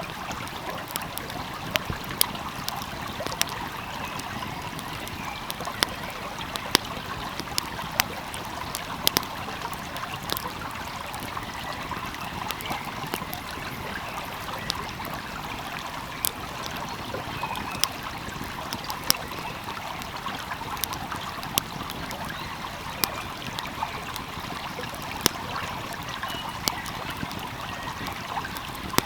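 Wood fire crackling with frequent irregular sharp pops over the steady rush of a flowing stream.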